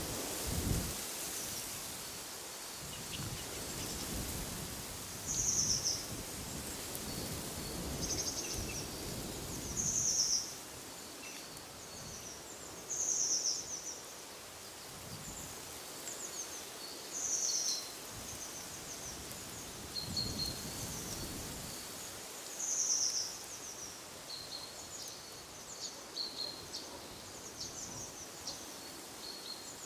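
Small birds calling with short, high notes repeated every few seconds, with fainter chirps between, over the rustle of wind. Low rumbling gusts of wind come and go in the first third and again about twenty seconds in.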